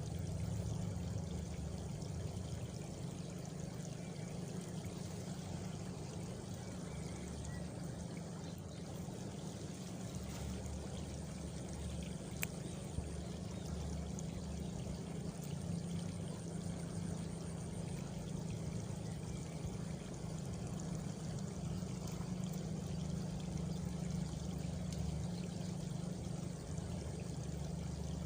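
Steady rushing of flowing water, like a stream or runoff, with a brief high cricket trill about halfway through and a single sharp tick just before it.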